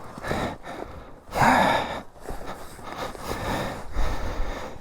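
A winded rider breathing hard, with a loud gasping breath about a second and a half in and quieter breaths after it.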